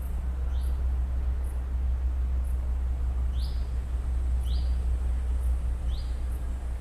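Forest ambience: a bird gives four short, quickly rising call notes spread over a few seconds, with faint high ticks about once a second, over a steady low rumble.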